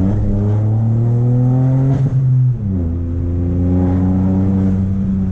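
Chevrolet Onix 1.0 turbo three-cylinder engine with a downpipe and sport exhaust, pulling under acceleration with its note rising. About two seconds in there is a short break and the pitch drops as it shifts up, then it climbs again in the next gear.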